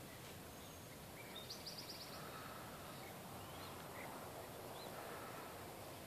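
Faint background noise with scattered songbird chirps: a quick run of high notes about a second and a half in, then a few short single chirps.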